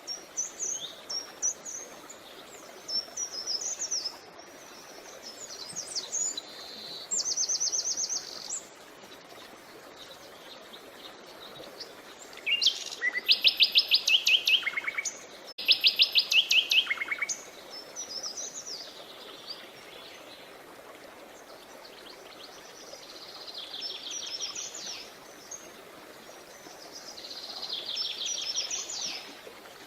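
Songbirds singing in short, high phrases and fast trills of repeated notes, the loudest two trills about halfway through, over the steady rush of a creek.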